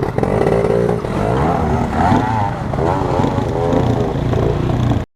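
Dirt bike engine revving, its pitch rising and falling as the throttle is worked, then cutting off abruptly about five seconds in.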